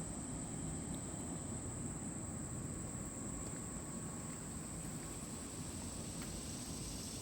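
Steady, unbroken high-pitched chorus of late-summer insects such as crickets, over a low steady rumble.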